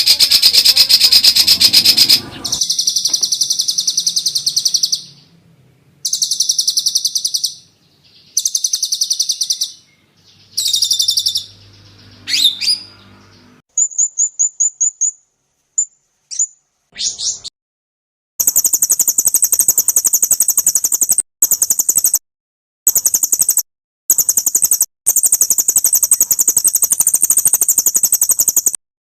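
Songbirds' sharp, high-pitched rapid trills and repeated call notes, spliced into a bird-song tutoring track for white-rumped shamas. The song comes in bursts of one to three seconds with abrupt breaks, a quick run of ticking notes near the middle, and a long, very high, dense trill through the second half.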